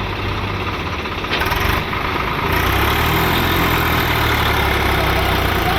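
Heavy diesel engines of tractors and a backhoe loader running steadily, the engine sound growing louder about halfway through.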